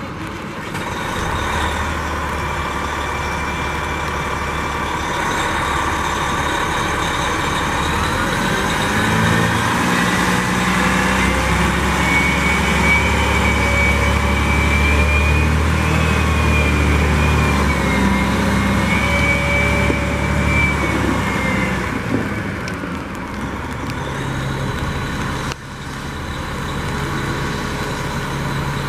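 Terex TA40 articulated dump truck's diesel engine running, with a whine that rises and falls in pitch between about nine and twenty-two seconds while the engine grows louder, then settling back to a steadier run.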